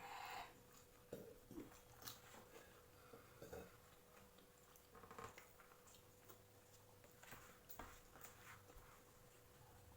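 Faint eating sounds: quiet chewing with scattered small clicks and knocks, under a faint steady hum.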